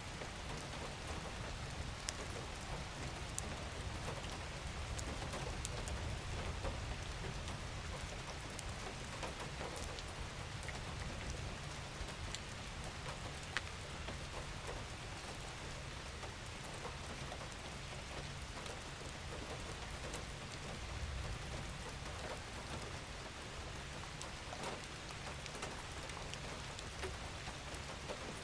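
Steady, gentle rain falling, with scattered individual drops ticking through the hiss.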